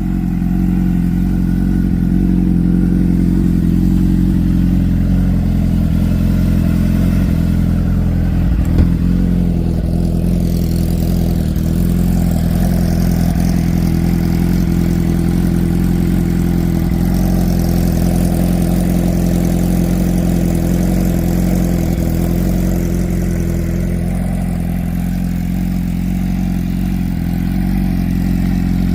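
2009 Suzuki GSX-R750 inline-four idling steadily through an M4 Street Slayer full exhaust, shortly after a cold start.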